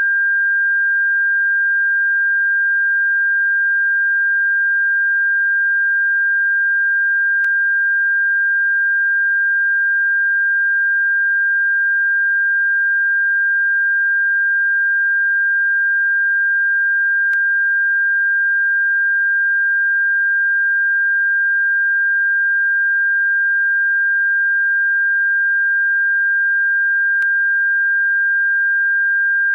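A single steady high-pitched electronic pure tone, played as a bird-repellent frequency, unchanging in pitch and loudness. A very faint click comes about every ten seconds.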